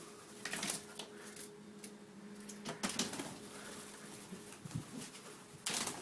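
A bird loose in a small room flapping its wings in short bursts, three times, with a faint steady hum underneath.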